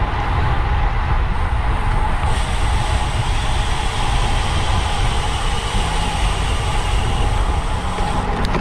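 Wind rushing over the microphone of a camera carried on a road bike at racing speed, a steady low rumble with a faint steady hum.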